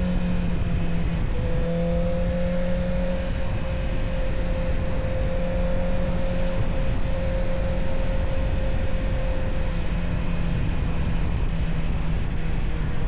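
Honda CB650R's inline-four engine running at a steady, near-constant pitch, as at a cruise, over a dense low rumble.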